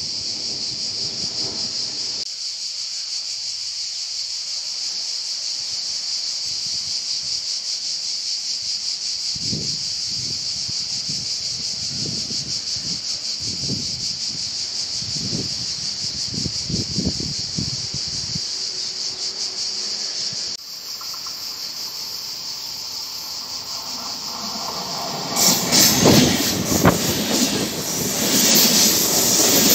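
Steady high-pitched chirring of insects. From about 25 seconds in, a double-deck Vivalto regional train passes quickly close by, its coaches and wheels on the rails growing loud.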